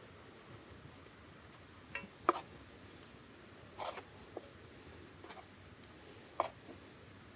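Scattered light taps and clicks, about eight of them, unevenly spaced, the sound of small objects or utensils being handled and set down.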